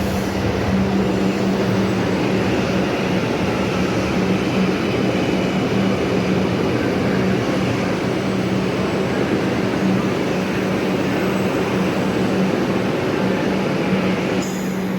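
Steady running noise of a vehicle in motion, a dense rumble with a constant low hum throughout.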